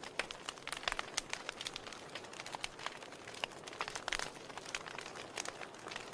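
Wood fire in a fireplace crackling: irregular sharp pops and snaps over a soft steady hiss of burning.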